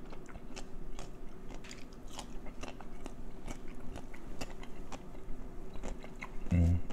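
Close-miked mouth sounds of a person chewing crispy fried chicken with pickles: irregular wet, crunchy chewing clicks several times a second. A short low hum near the end.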